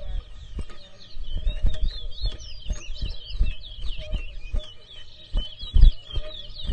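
Caged towa-towa seed finch singing a fast, twittering warble of quick chirping notes, with scattered low thumps and bumps.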